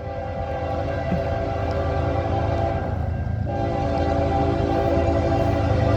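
Diesel freight locomotive sounding its multi-chime air horn in two long blasts, with a short break about three seconds in, over the low rumble of the passing train.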